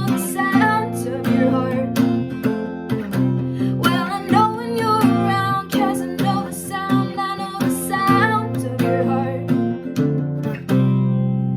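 Strummed acoustic guitar with a voice singing over it. Near the end a last chord is struck and left to ring out, fading.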